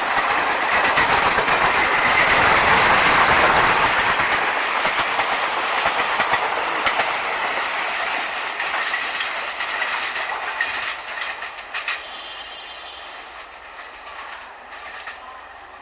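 Express passenger train running past at about 76 km/h, its wheels clattering over the rail joints. The noise peaks about three seconds in, then fades steadily as the train draws away.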